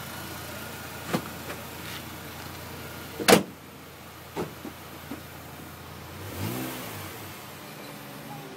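Mini Challenge race car engine running at idle, with a few knocks and one loud, sharp knock about three seconds in. About six and a half seconds in the pitch briefly rises and falls, like a short blip of the throttle.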